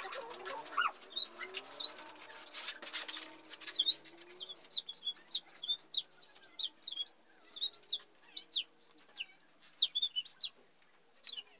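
A small bird chirping over and over, several short high chirps a second, each falling slightly in pitch. Knocks and rattles are heard in the first few seconds.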